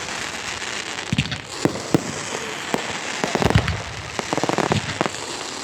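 Fireworks going off: a string of sharp bangs over a steady crackling hiss, with a quick run of crackling reports a little after the middle.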